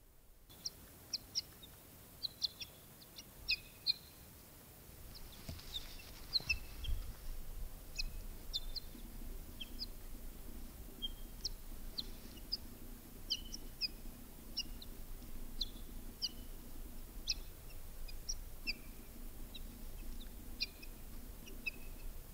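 Small birds chirping: short, high, sharp chirps scattered through, one or two a second. A brief low rumble comes about six seconds in.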